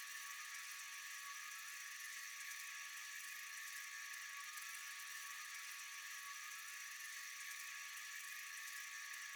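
A steady, high-pitched whirring hiss with a few faint held tones in it, unchanging throughout, with almost nothing in the low range.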